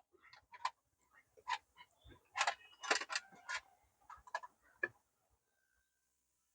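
Light, sharp clicks and clinks, about eight scattered over the first five seconds, some with a brief metallic ring, then they stop.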